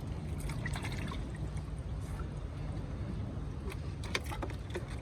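Shallow water splashing and trickling in small scattered strokes while someone works through a drained tide pit, over a steady low rumble.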